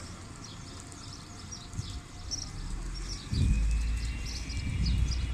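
Small birds chirping over and over in short high calls, with a low rumble coming in about three seconds in and staying louder to the end.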